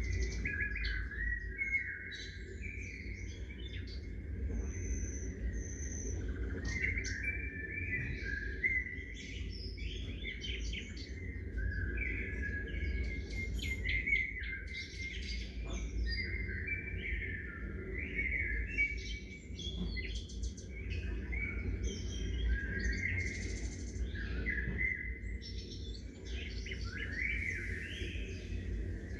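Songbirds chirping and singing, many short calls and phrases overlapping throughout, over a steady low rumble.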